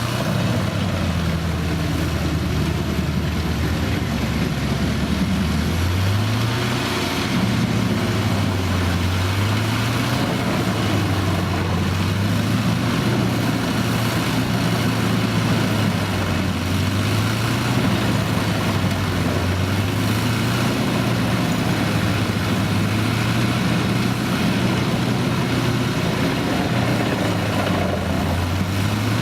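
Large farm-machine diesel engine running loudly and steadily, its low pitch rising and falling every few seconds as the load or throttle changes.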